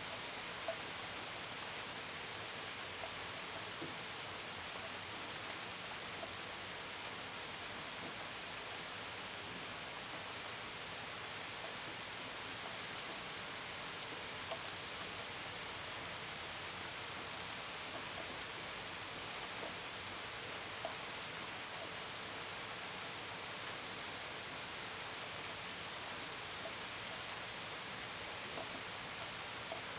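Steady gentle rain, a constant hiss with scattered drops pattering and ticking on a window and gutters. Crickets chirp faintly in short high-pitched bursts.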